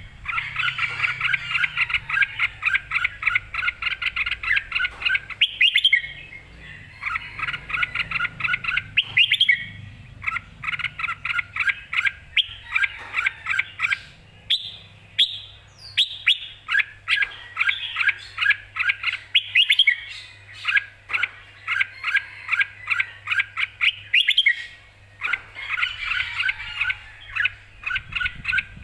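Red-whiskered bulbul singing lively, clear song: runs of quick, bright repeated notes lasting several seconds each, with short pauses between phrases.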